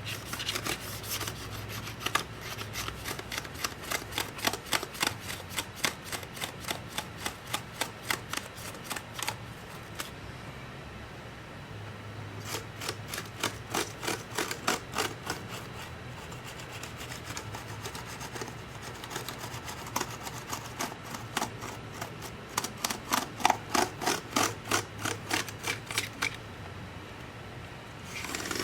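Rhythmic back-and-forth scrubbing, about three strokes a second, in three long runs with short pauses between, over a low steady hum: a brush worked over the parts of a MacBook Pro to clean out packed dust.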